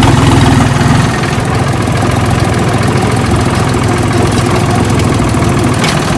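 Farmtrac tractor's diesel engine running steadily while towing loaded trolleys, easing to a lower level about a second in.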